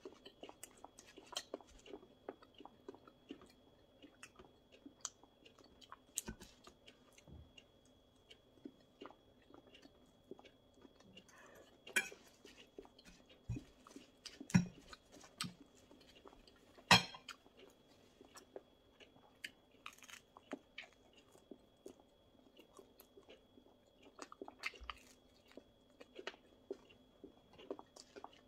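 Close-miked chewing and crunching of crisp thin-crust flammkuchen and salad, with wet mouth clicks and a few louder sharp clicks and crunches in the middle.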